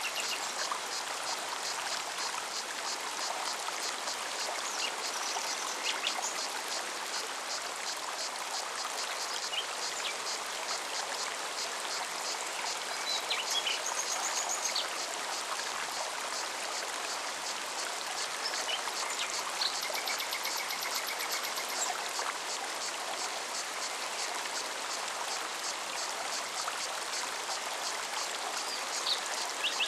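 Forest mountain stream running steadily over rocks, with cicadas singing in an even pulsing rhythm over it. A few short bird chirps and calls break in now and then.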